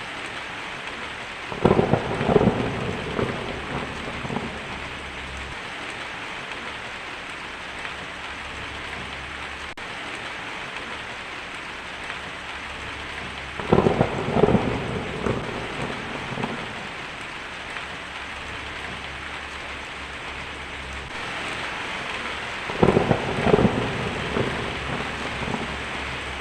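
Steady rain falling, with three claps of thunder about ten seconds apart, each a sudden loud crash that rumbles away over a couple of seconds.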